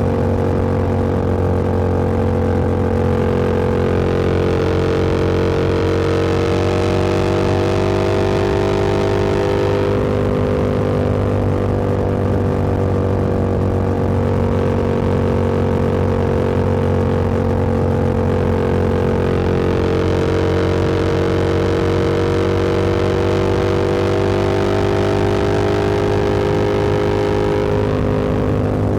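Motorcycle engine and exhaust at a steady cruise, its pitch drifting slightly up and down with road speed. Wind rush on the microphone swells and fades twice.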